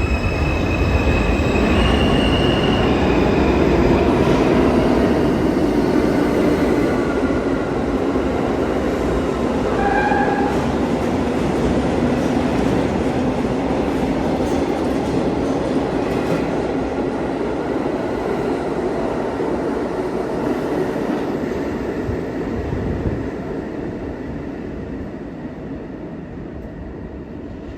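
R42 subway refuse train running through a station without stopping, its wheels rumbling and clattering on the rails, with a short tone about ten seconds in. The noise fades steadily near the end as the train pulls away.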